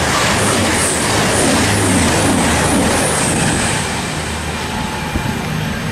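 Passenger train passing close alongside the platform at speed: a loud rush of wheels on rail and air, with a rhythmic beat about twice a second that eases off after about four seconds.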